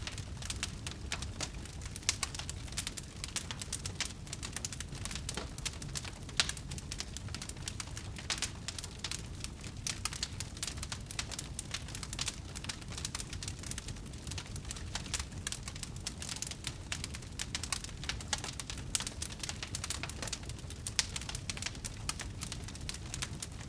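Wood fire crackling in a fireplace: a dense, irregular stream of small pops and snaps over a low steady rumble.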